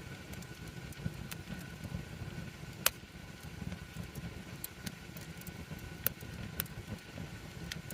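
Wood campfire burning with a low, flickering rumble of flames, broken by sharp crackles and pops from the burning wood. The loudest pop comes a little under three seconds in.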